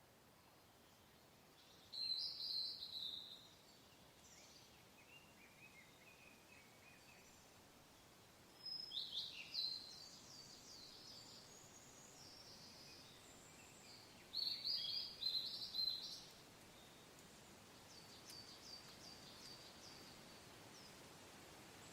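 Songbird singing three short phrases of quick high chirping notes a few seconds apart, with fainter chirps near the end, over a soft steady hiss of wind.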